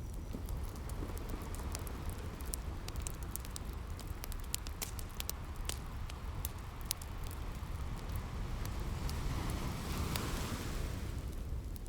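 Wood fire crackling with frequent sharp pops over the steady low rush of sea waves. A wave washes in with a swelling hiss about nine seconds in and fades away just before the end.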